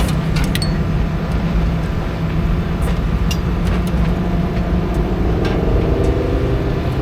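Engines running with a steady low drone and a few scattered clicks; a second engine tone rises slightly in pitch near the end.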